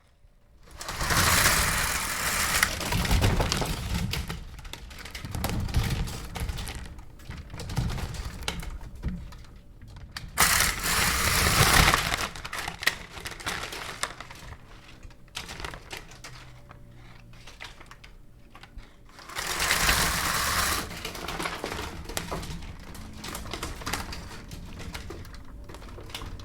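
Window blinds being pulled up, the slats clattering and rattling as they rise and stack. The rattling swells in three louder stretches, near the start, about ten seconds in and about twenty seconds in, with lighter clicking between.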